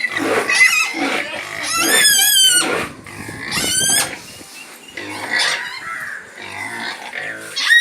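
Pigs squealing: several loud, high-pitched squeals in the first few seconds, then lower grunting before another squeal starts at the very end.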